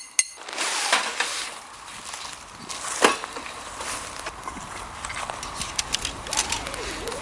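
Wood campfire crackling: a steady hiss with irregular small pops and one louder snap about three seconds in.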